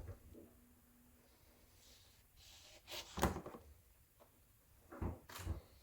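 A few light knocks from objects being handled, one about three seconds in and two close together near the end, with a brief scraping hiss just before the first.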